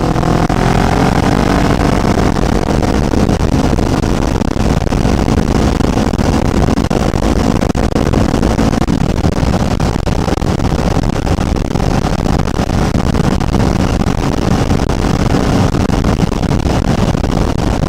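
Kawasaki Ninja 500's parallel-twin engine running steadily under load as the motorcycle climbs, its pitch drifting gently up and down, over a steady rush of wind and road noise.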